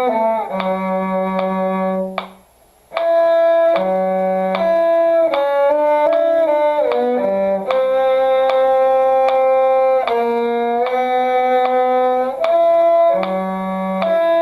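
Violin and cello duet playing a slow, calm movement: a violin melody over a lower bowed line. Both stop briefly about two seconds in, then play on.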